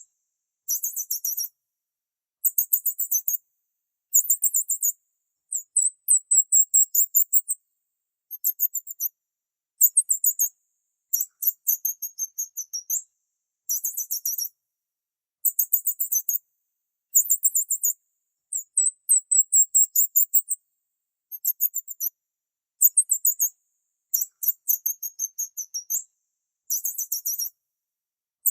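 Small birds chirping: short, rapid trains of very high-pitched chirps and twittering notes, repeated about every second and a half, with clean silent gaps between phrases.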